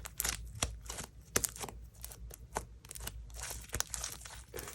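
Homemade slime being squished, folded and stretched by hand, giving irregular wet clicks, pops and crackles.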